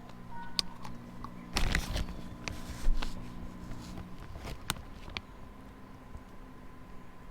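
Objects being handled: a few light clicks and knocks with two short rustles in the first half, over a faint steady low hum.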